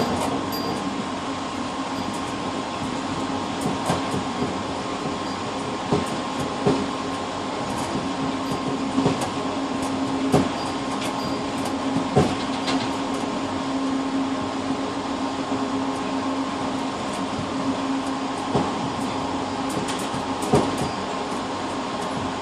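Passenger train running, heard from the driver's-cab vestibule of its tail car: a steady rumble with a low hum and a higher whine, and a dozen sharp knocks at uneven intervals.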